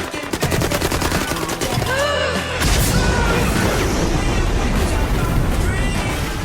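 Rapid bursts of automatic gunfire with a dramatic music score underneath, the shots densest in the first couple of seconds.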